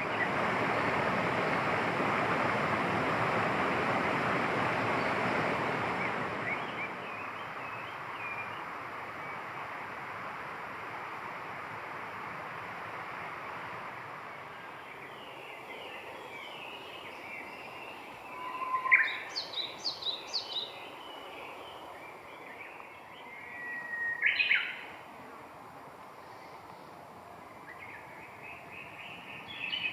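Birds calling outdoors over a steady background hiss: a louder, even rushing noise for the first several seconds, then scattered calls. A run of sharp repeated notes comes about two-thirds of the way in, another call follows a few seconds later, and a fast series of notes begins near the end.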